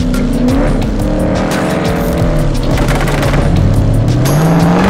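Jaguar F-Type R's 5.0-litre supercharged V8 with an upgraded sports exhaust, driven hard: the revs rise and fall several times, with a long climb in the last second and a half.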